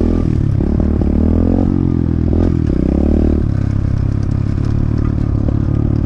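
Pit bike engine running, its revs rising and falling over the first few seconds, then held steadier.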